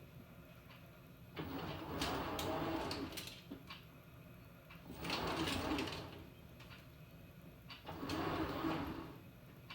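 Panasonic NA-FA100H9 top-loading washing machine, its pulsator churning the load in swishing surges about every three seconds, with a low motor hum and a few clicks in between.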